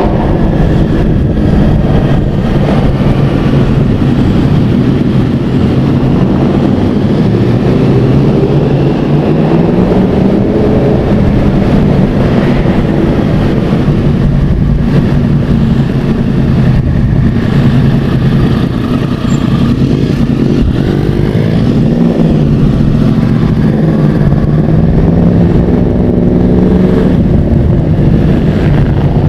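Sport motorcycle engine running at low speed, heard from on board the bike, its pitch rising and falling as the rider works the throttle and gears.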